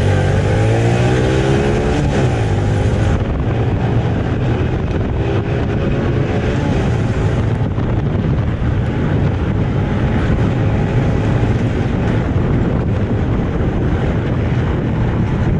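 Honda 125 motorcycle engine pulling away and running at speed, its pitch climbing over the first few seconds as it accelerates, with heavy wind rushing over the microphone.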